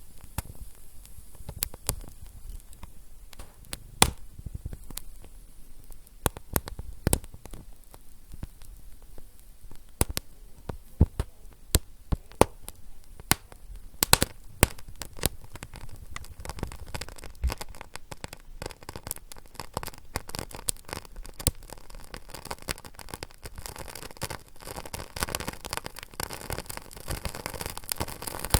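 Fire crackling: irregular sharp pops and snaps over a low hiss, the hiss growing fuller about halfway through.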